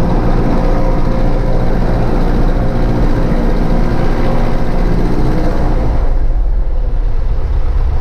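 Cessna 152's four-cylinder Lycoming engine and propeller running steadily. About six seconds in, the higher part of the sound drops away and the deep low hum grows stronger.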